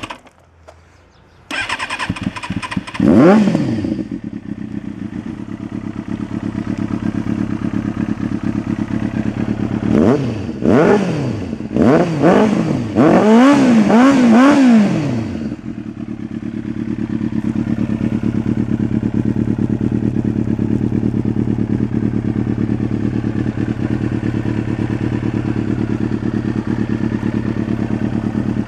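Kawasaki Ninja ZX-6R inline-four through a LeoVince Factory R Corsa titanium full exhaust: it starts about a second and a half in and is revved sharply once. It then idles, is blipped several times in quick succession around the middle, and settles into a steady idle.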